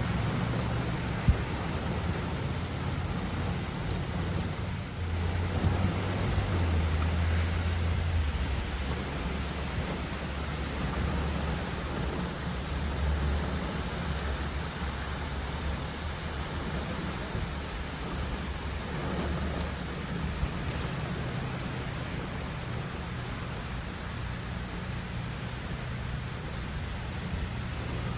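Steady rain with low rolling thunder, the rumble swelling between about five and eight seconds in. A single sharp click about a second in.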